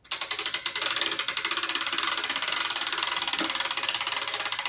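Winch paying out its cable with a loud, rapid ratcheting clatter that starts suddenly and cuts off sharply near the end.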